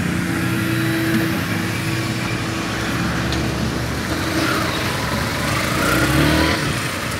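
Yamaha Factor 150 motorcycle's single-cylinder engine running while riding at low speed, its note shifting up and down with the throttle, over a steady rush of road and wind noise.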